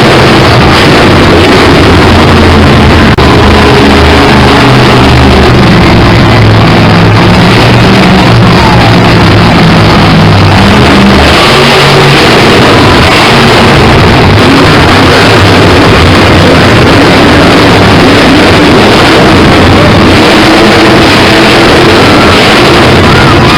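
Monster truck supercharged V8 engines running and revving hard, the engine note stepping up and down in pitch over a dense roar. The recording is overloaded.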